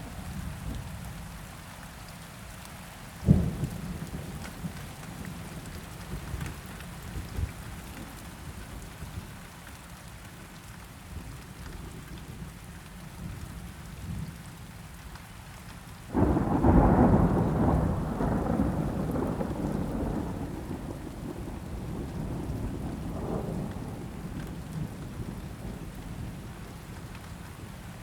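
Steady rain with thunder: a single sharp crack about three seconds in, then a loud rumble that starts suddenly past the halfway point and rolls on, slowly fading over several seconds.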